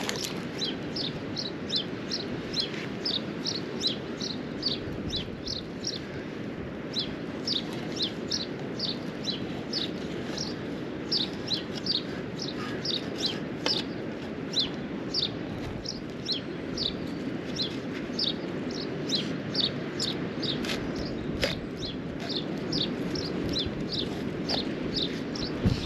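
A bird calling: a short, high, falling chirp repeated steadily about two to three times a second, with a brief pause about six seconds in, over a steady low background hiss.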